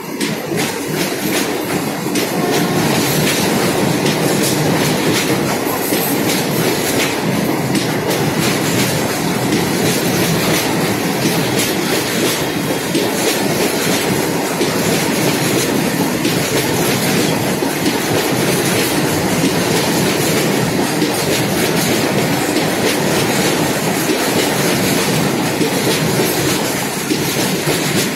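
Goods train of open-top freight wagons rolling past close by: a steady, loud rumble with repeated clickety-clack of the wheels over the rail joints.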